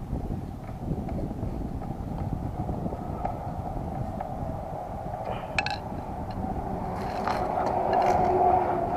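Honda NSR250R two-stroke engine running, with a rapid, uneven pulsing that swells louder about seven seconds in.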